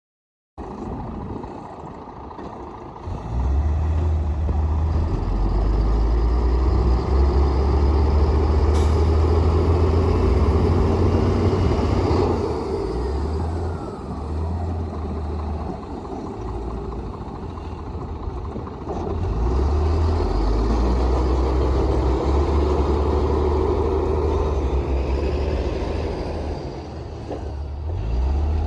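Komatsu D58P bulldozer's diesel engine working hard, with a deep, heavy drone. It grows louder a few seconds in, eases off about midway, and builds again later.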